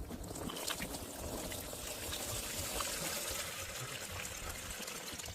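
Water running in a steady trickling flow, an even hiss of flowing water.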